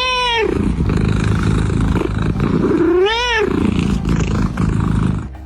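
Cat meowing twice: one drawn-out meow that rises and falls at the start and another about three seconds in, over a steady rough noise.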